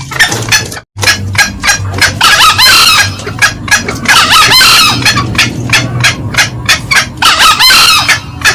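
Green junglefowl calls: a fast run of sharp clucks, about three to four a second, broken by three short crowing phrases about two and a half, four and a half and eight seconds in. A low hum runs underneath, and the sound drops out briefly just under a second in.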